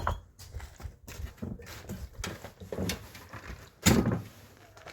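Scattered knocks and clatters, with one loud thump about four seconds in.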